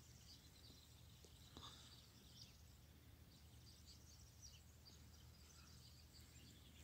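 Near silence: low background noise with faint, high bird chirps scattered through it.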